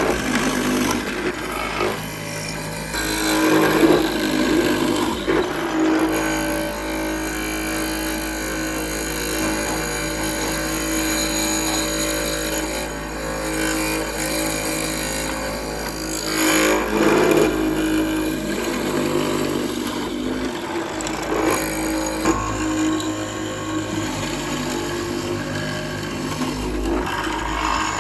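A power tool running continuously on wood, with louder stretches about three seconds in and again just past the middle.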